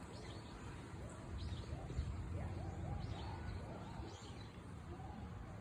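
Small birds chirping now and then over a steady low outdoor rumble, with faint voices in the distance.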